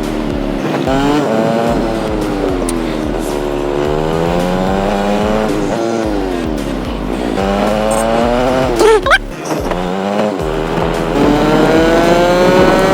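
TVS Apache RTR 200 4V single-cylinder motorcycle engine, recorded raw while riding. Its pitch climbs as it accelerates, then drops at gear changes or slides down as it slows on engine braking, several times over. A brief, sharp rising sound stands out about nine seconds in.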